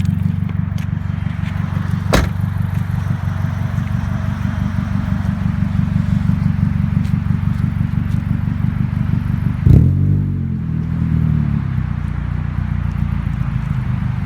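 Honda Accord four-cylinder engine running through a full straight-piped stainless exhaust at a gentle cruise, with a steady low exhaust note. There is a sharp crack about two seconds in and a louder bang near ten seconds, after which the engine pitch sweeps for a couple of seconds.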